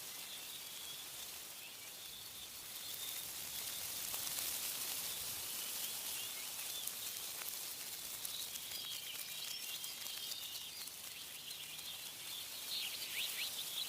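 Wind rustling tree leaves as a steady hiss that swells and eases, with small birds chirping; a burst of quick, sharp chirps near the end.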